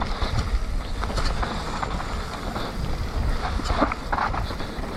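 Mountain bike riding down a muddy trail: steady wind rumble on the microphone, with the bike rattling and knocking over bumps.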